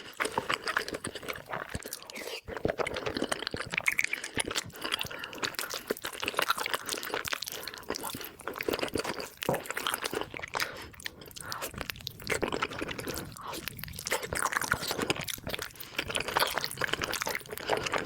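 Close-miked chewing and biting of spicy beef trotters (cow's feet), a dense, continuous run of small mouth clicks.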